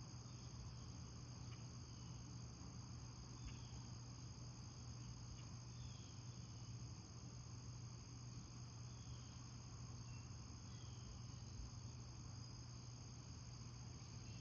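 Faint, steady chorus of crickets trilling high, with short high chirps every second or two and a low steady hum beneath.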